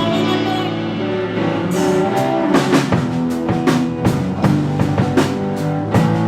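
Live rock band playing: guitar and bass holding chords, with the drum kit thinning out briefly and then coming back in with a steady beat about two seconds in.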